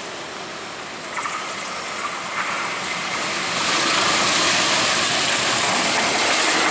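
Diesel-electric locomotive hauling a passenger train, approaching and passing close at speed: a rising rush of engine and wheel-on-rail noise, with a few sharp clicks about a second in, turning loud about three and a half seconds in.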